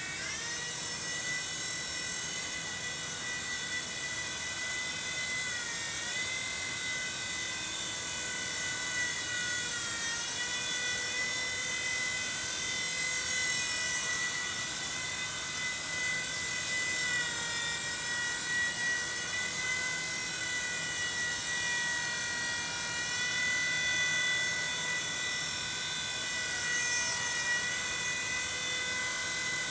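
Micro RC helicopter's electric motor and rotor whining steadily in flight, its pitch dipping briefly and recovering a few times as the throttle changes.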